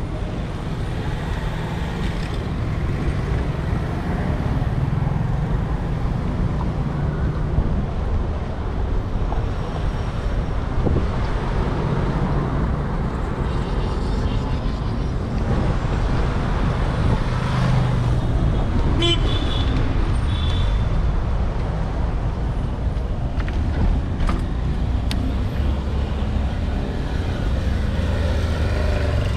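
City street traffic heard from a moving bicycle: cars and other vehicles passing, with a short horn toot about two-thirds of the way in.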